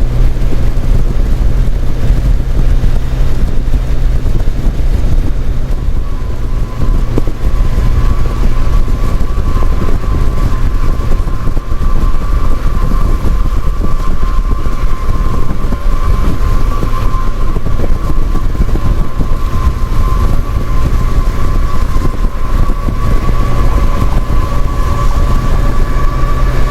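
Motorcycle on the move, with a steady engine note and heavy wind rumble buffeting the microphone; a faint steady whine joins about six seconds in.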